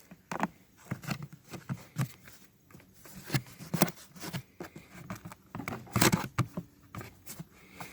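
Irregular clicks, knocks and rustles of parts being handled and fitted onto a Predator 3500 inverter generator.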